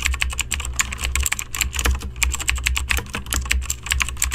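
Fast typing on a computer keyboard, many keystrokes a second, over a steady low hum.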